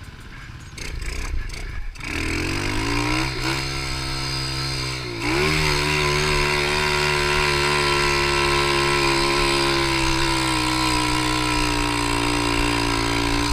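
Pit bike's small single-cylinder engine accelerating: the revs climb, dip briefly twice as it shifts up, then hold steady at high revs.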